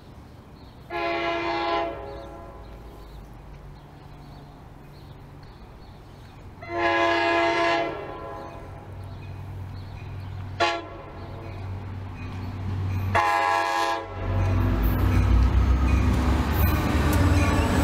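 Passenger train's locomotive air horn sounding the grade-crossing signal: two long blasts, a short one, then a long one, warning of its approach. Then the train arrives and passes loudly, with engine rumble and rail noise filling the last few seconds.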